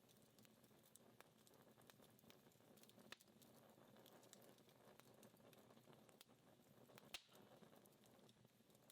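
Dying wood fire crackling faintly, with scattered small ticks and a sharper pop about three seconds in and another about seven seconds in.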